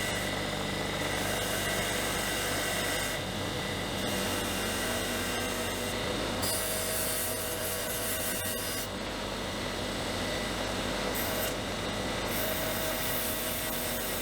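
Small electric power tool running steadily and working against a metal part. The hiss over its motor note changes every few seconds as the tool bears on the part and eases off.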